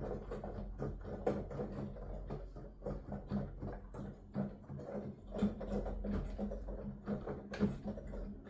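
Piano keys played heard without their notes: a busy, irregular clatter of key action thumps and clicks, several a second, over a steady low hum.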